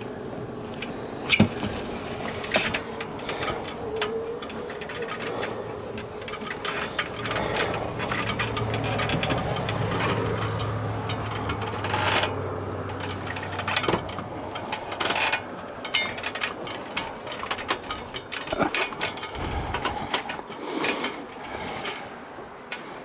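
Honey bees buzzing, with repeated knocks and scrapes and a low steady hum for several seconds in the middle.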